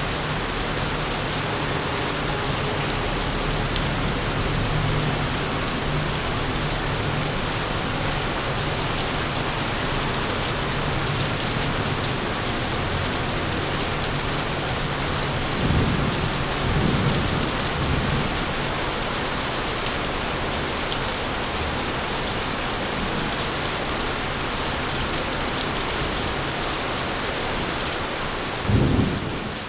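Heavy rain falling steadily, with a low thunder rumble in the first half, two thunderclaps about halfway through and a sharper clap near the end.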